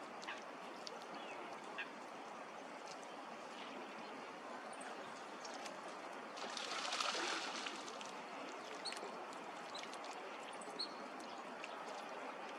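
Ducks calling on open water, with short faint chirps of small birds over a steady background hiss. About six seconds in comes a louder rush of noise lasting roughly a second.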